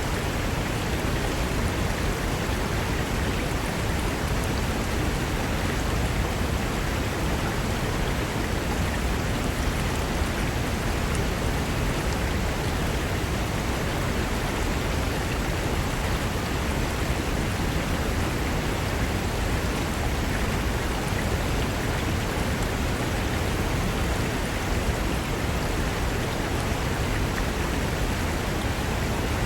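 Mountain river rushing over rocks: a steady, even rush of water that does not let up.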